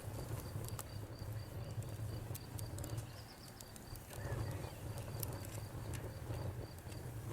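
Wood fire crackling, with scattered sharp pops over a low steady rumble that eases off briefly about three seconds in. A high, even chirp repeats about three times a second in the background.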